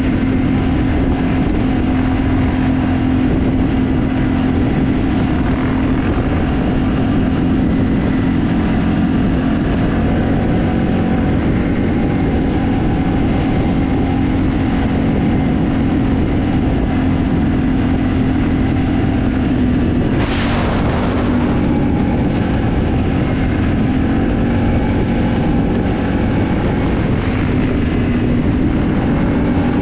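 Off-road vehicle engine running at steady revs while being ridden, with a brief rush of noise about twenty seconds in.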